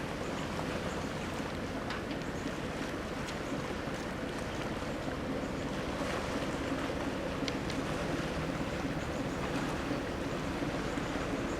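Large ship's engine droning steadily, a low even hum over a wash of wind and water noise.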